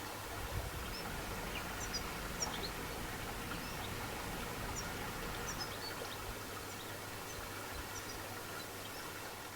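Wild birds giving scattered short, high chirps over a steady field ambience with a low rumble.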